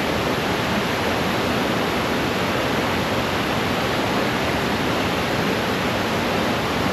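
Steady rushing of water tumbling over a small creek cascade.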